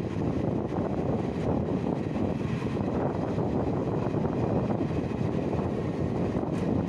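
Passenger train coach running at speed, a steady rush of wheels on rail with wind buffeting the microphone at the open door.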